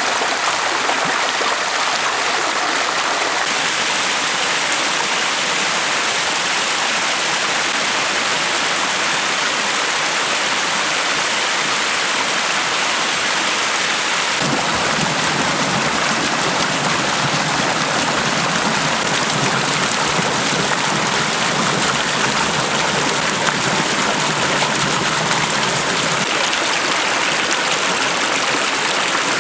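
Mountain valley stream rushing, a steady loud sound of running water. About halfway through it becomes fuller and deeper.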